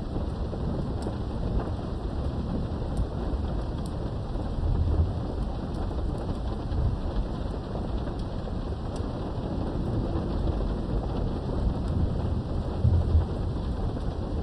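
Steady rain heard behind a window, with low rolling thunder rumbling under it. The thunder swells about five seconds in and again near the end.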